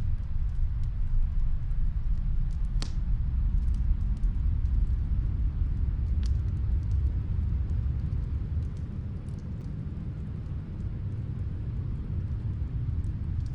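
Snowstorm wind as a steady low rumble, with a faint fire crackling from another room: scattered small clicks and a couple of sharper pops about three and six seconds in.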